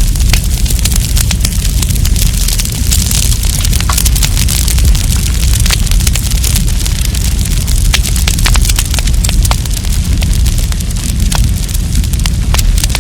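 Wood campfire crackling, with frequent sharp pops and snaps over a steady low rumble and hiss of the burning fire.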